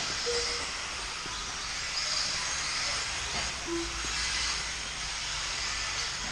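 A field of 1/10-scale electric 2WD buggies racing: a steady high-pitched hiss and whine of brushless motors, gears and tyres that swells and fades every second or two as cars pass.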